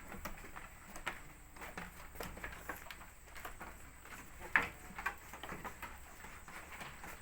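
Goats moving about in their pen: scattered, irregular taps and knocks of hooves, with one sharper knock about four and a half seconds in.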